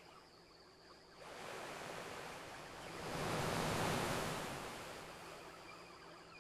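Ocean waves rolling onto a beach: one wave swells in about a second in, peaks near the middle and washes back out.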